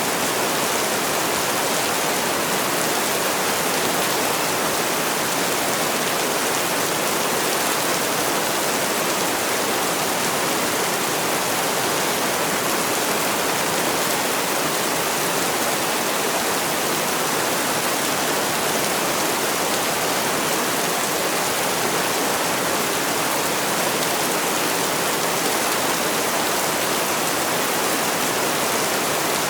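Heavy rain falling in a steady, unbroken hiss, with no separate drops or thunder standing out.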